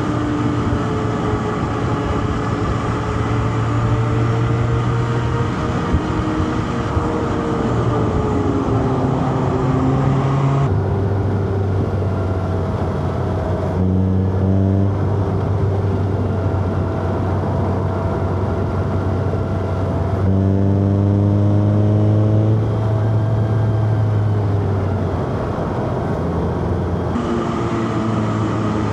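Inline-four car engine pulling under load from inside the car, its revs climbing and dropping as the driver works through the gears.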